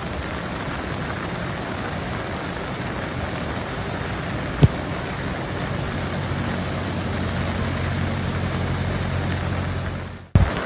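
Steady noise of heavy typhoon rain, with a single sharp click about halfway through. A low steady hum joins it about six seconds in, and the sound cuts off abruptly shortly before the end.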